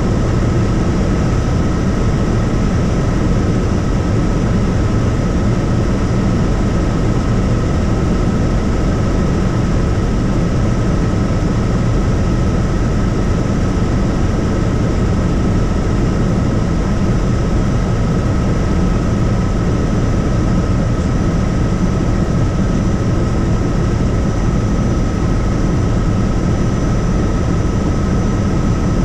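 Tour helicopter in steady flight: a loud, even drone of rotor and engine with a constant high whine over it.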